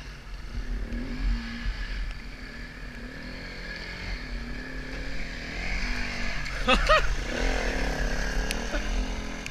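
Dirt bike engine running through the gears, its pitch rising and falling with the throttle, with a sharp rev swinging up and back down about seven seconds in.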